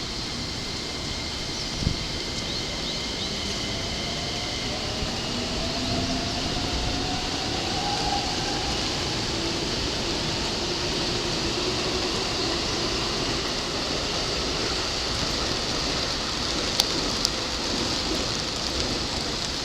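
Keikyu Line electric train running, with the rumble of wheels on rail and motor whines that rise slowly in pitch as it picks up speed. A single sharp click about two seconds in and two more near the end.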